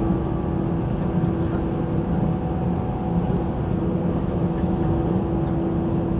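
Running noise inside a 185 series electric train at steady speed: a low rumble of wheels on rail with a steady humming tone from the running gear.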